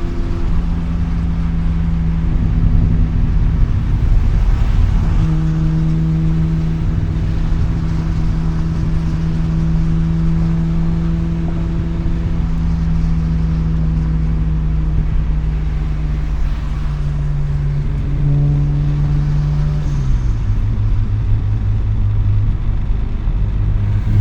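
Mazda RX-7's two-rotor rotary engine through an RE Amemiya Dolphin Tail 90 Curl exhaust, heard from the cabin with the windows down. It cruises at steady revs after a brief change about four to five seconds in, and the engine note drops in pitch near the end.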